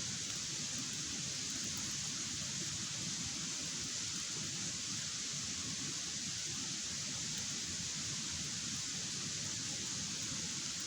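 Log campfire burning with a steady, even rushing noise and no distinct pops.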